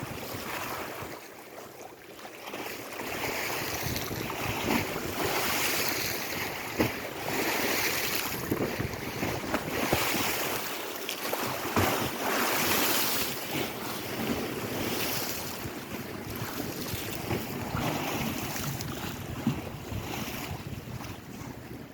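Lake waves washing in and breaking, rising and falling every two to three seconds, with wind buffeting the microphone.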